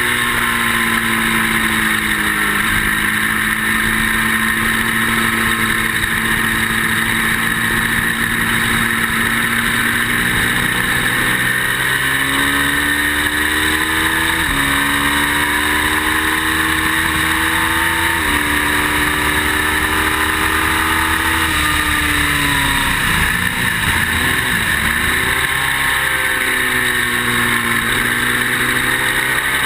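Ducati motorcycle engine pulling hard at track speed, its pitch climbing and stepping back down with each upshift, then dropping through downshifts and engine braking about two-thirds of the way in before climbing again, with steady wind rush over the microphone.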